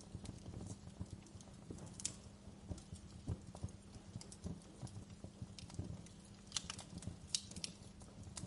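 Wood fire burning in a fireplace: a steady low rumble of flame with irregular crackles and sharp pops, the loudest pops coming about two, three and a half, and seven seconds in.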